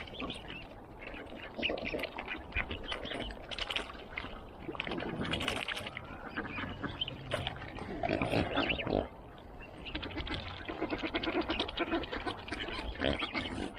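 Ducks and other waterfowl calling irregularly at close range, with quacks among the calls.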